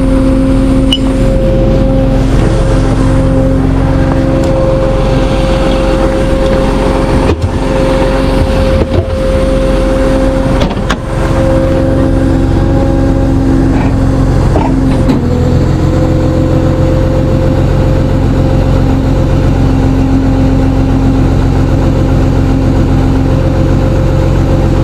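A tow truck's engine running steadily under load, heard from inside the cab, with a steady whine over it and a few short knocks partway through. About two thirds of the way in, the low engine note gets fuller and holds steady.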